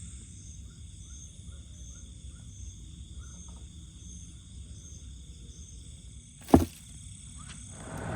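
Night insect chorus: steady high-pitched trills with rows of short, evenly spaced chirps over a low rumble. A single sharp knock comes about six and a half seconds in, with a fainter click a second later, and a rising noise begins right at the end.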